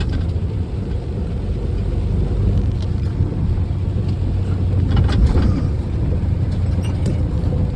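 Big truck driving along, its engine and road noise making a steady low rumble, with a few light clicks or rattles about five seconds in.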